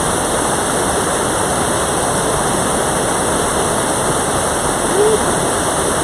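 Mountain valley stream rushing over rocks, a steady, loud wash of flowing water. About five seconds in, a brief short tone rises and falls.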